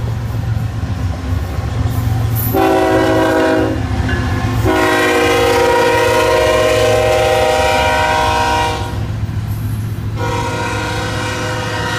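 BNSF diesel locomotive's air horn blowing three times over a steady low rumble: a short blast about two and a half seconds in, a long blast of about four seconds, and another starting near the end.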